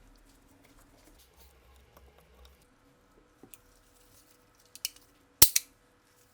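Faint handling rustle with small ticks, then a few sharp clicks near the end, the loudest a close pair about five and a half seconds in.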